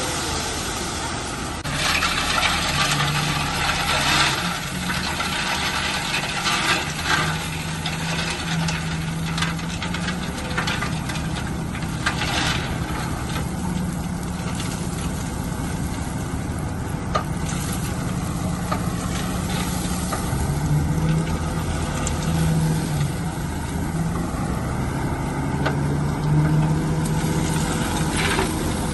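Heavy construction machine's diesel engine running under varying load, its pitch stepping up and down, with bursts of clattering and scraping from the rock being worked a few times.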